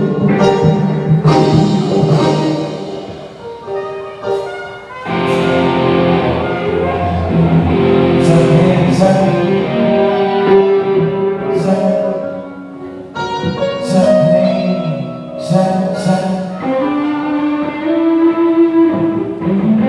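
Band music over a PA sound system during a sound check: sustained instrument notes with sharp hits every second or two.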